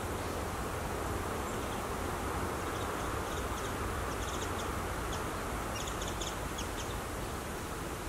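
Birds giving short, high chirps in quick runs, about three seconds in and again around six seconds, over a steady outdoor hiss.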